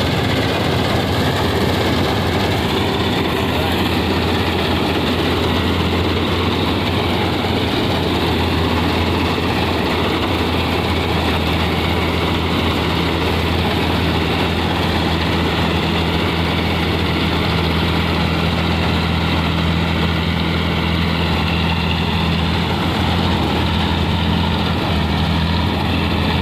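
Combine harvester running steadily as it cuts wheat: a loud, constant engine drone with a steady low hum that does not change.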